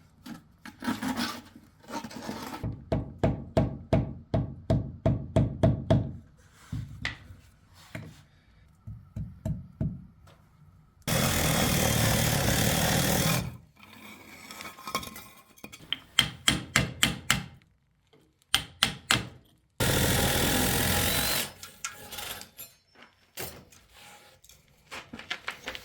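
Aerated concrete (gas-block) being worked with hand tools: runs of quick, even strokes at about four a second, like hand-sawing or rasping the blocks. Twice, about eleven and twenty seconds in, a power tool runs steadily for two to three seconds.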